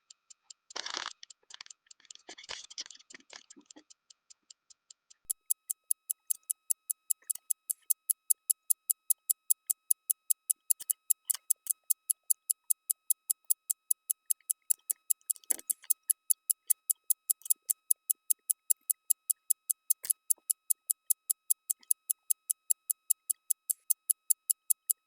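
Fast, even clock ticking that starts about five seconds in, over a faint steady tone, after a few seconds of soft rustling and light knocks.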